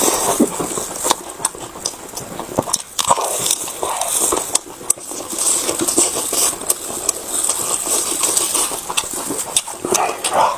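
Close-miked chewing and lip-smacking of braised pork belly: wet mouth sounds broken by many short sticky clicks.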